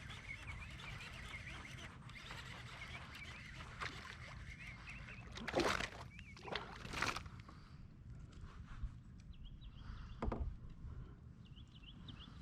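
Steady wind rumble on the microphone with faint bird chirps, broken by a few sharp splashes and knocks as a hooked bass is brought alongside the kayak; the loudest comes about halfway through.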